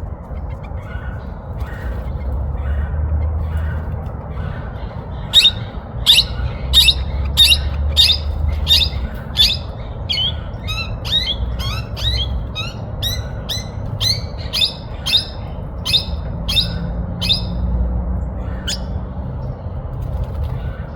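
Hooded parrots calling during mating: a run of sharp, repeated squawking chirps, about two a second, starting about five seconds in and lasting some twelve seconds, with one last call a little later. Softer chatter comes before the run, and a low steady rumble runs underneath.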